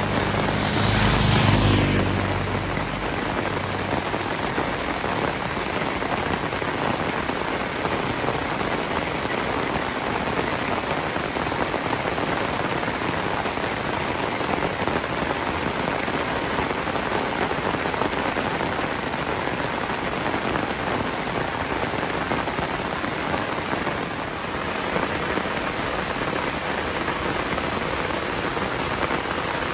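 Heavy rain falling steadily, a dense, even hiss. About a second in, a brief louder low rumble swells and fades within a couple of seconds.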